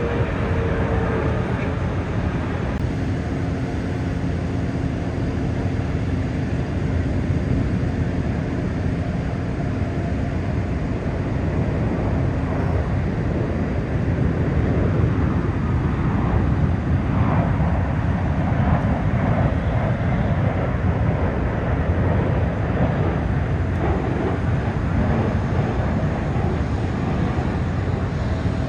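Steady aircraft engine noise with a tone that falls in pitch near the start.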